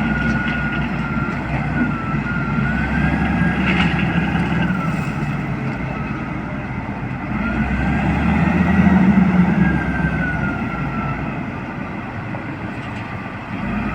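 Caterpillar 966G wheel loader's diesel engine running and revving up and down twice, with a high whine that rises and falls along with the revs.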